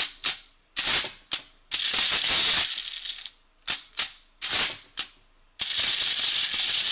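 1950s mechanical calculator, first a series of separate clacks and short rattling runs, then from about five and a half seconds in a steady, continuous clatter. The machine is dividing by zero and keeps cycling without ever finishing.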